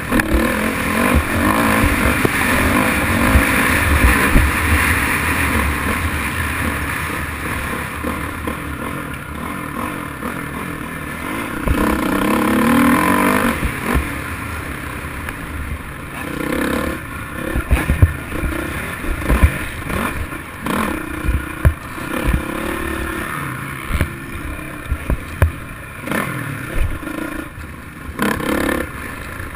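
Motocross dirt bike engine revving up and down as it is ridden, its pitch rising and falling, with repeated knocks and clatter throughout.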